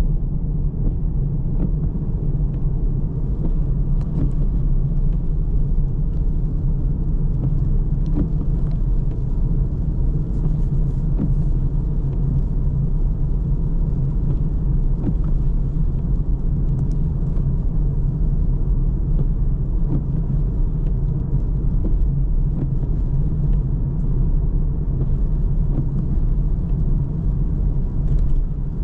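A car driving along, with a steady low rumble of road and engine noise and occasional faint ticks.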